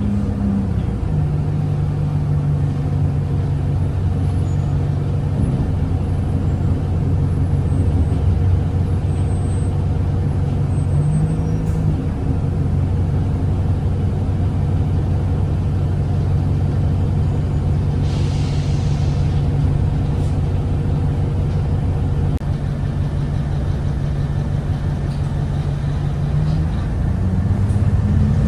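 Cummins ISBe diesel engine of an Alexander Dennis Enviro 200 bus running under way, heard from inside the bus. It is a steady drone whose pitch steps up about a second in and again around eleven seconds, then drops near the end. A brief hiss of air comes about two-thirds of the way through.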